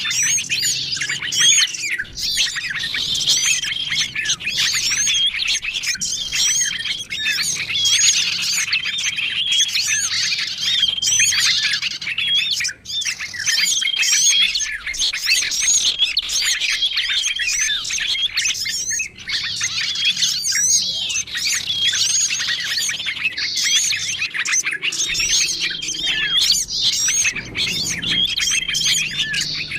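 A dense chorus of many small birds chirping, trilling and calling over one another without a pause, a mixed bird-lure recording made to draw in small wild birds. A short, steady whistled note recurs every few seconds above the busy chatter.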